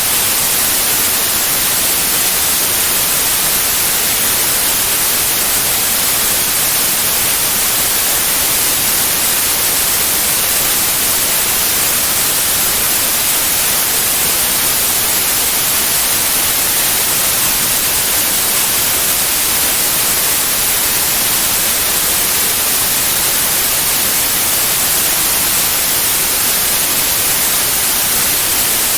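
Steady white noise: an even hiss, strongest in the highest pitches, with no change or break.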